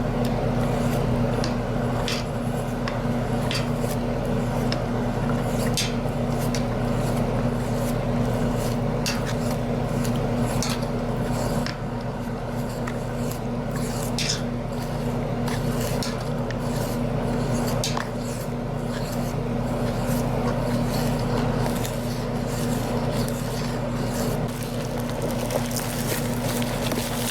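Wet concrete mix being stirred and scraped in a pot, with irregular squishing and scraping strokes over a steady low hum.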